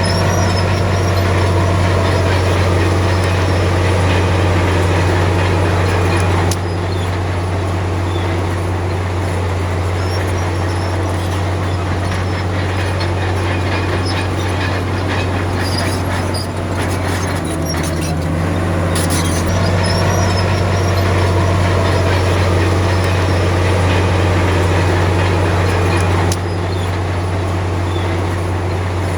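A Komatsu D53P bulldozer's diesel engine running steadily with a deep hum, with a few metallic clanks around the middle. The sound steps abruptly quieter about six and a half seconds in and again near the end.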